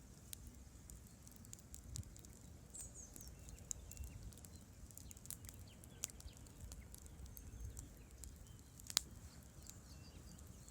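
Campfire wood crackling: irregular sharp pops and snaps, the loudest about nine seconds in, over the low steady rumble of a river.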